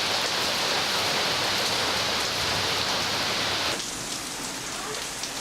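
Heavy rain pouring down in a steady hiss. About four seconds in it suddenly drops and sounds quieter and duller.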